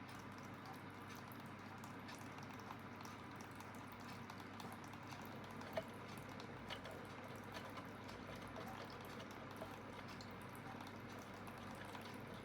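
Water trickling and dripping inside an Aidoo 1 kg mini washing machine, with scattered faint ticks, one sharper click a little past the middle.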